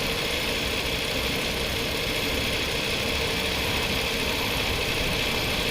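Chrysler Sebring's 2.7-litre V6 idling steadily with the A/C switched on, after a refrigerant recharge.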